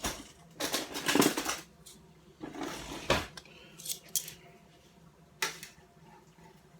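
A few short scrapes and clatters of kitchen handling, in about five separate bursts; the loudest come about a second in and about three seconds in.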